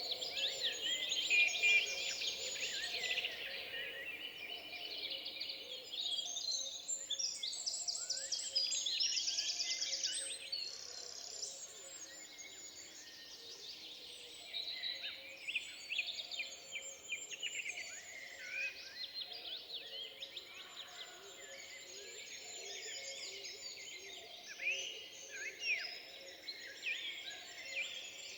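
Woodland birds singing together, many overlapping chirps, whistles and rapid trills, busiest in the first ten seconds.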